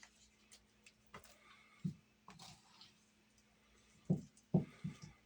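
Light clicks and a few soft thumps from dumpling dough being mixed by hand, the thumps bunched near the end, over a faint steady hum.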